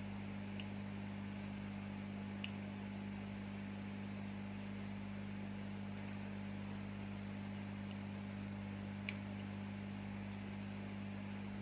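Steady electrical mains hum, with a few small sharp clicks, the loudest about nine seconds in.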